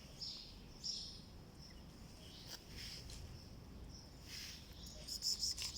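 Small birds chirping in short, high, irregular calls, with a quick run of chirps near the end, over a low steady background rumble.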